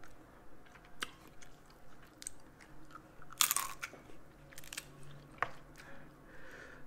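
Close-up mouth sounds of someone eating snow crab legs: chewing, with scattered sharp clicks and crackles of crab shell being pulled apart. One louder, brief crackle comes about halfway through.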